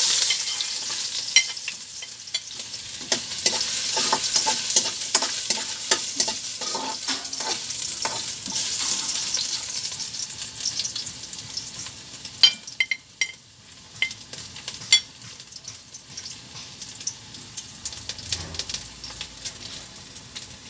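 Ginger slices sizzling in hot cooking oil in a metal pot while a metal ladle stirs them. The sizzle starts sharply as the ginger goes in and fades over the second half, with a few sharp clinks of the ladle against the pot about two-thirds of the way through.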